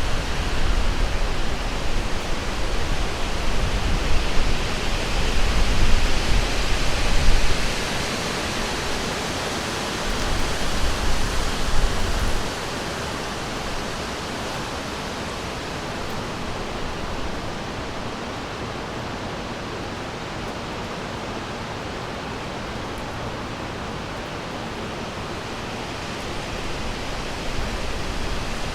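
River water rushing steadily. A deep low rumble swells over it for the first several seconds and again briefly before the middle, then the rush settles and runs evenly.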